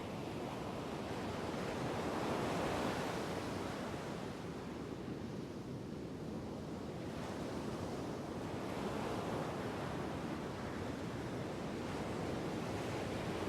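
Rushing, surf-like noise that swells and ebbs slowly, loudest about two seconds in and building again in the second half, with no voice or music.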